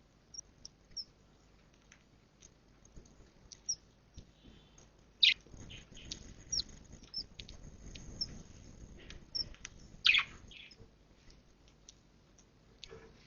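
Budgies in a nest box giving short, scattered chirps and squeaks, loudest about five and ten seconds in, with a soft rustle in the middle.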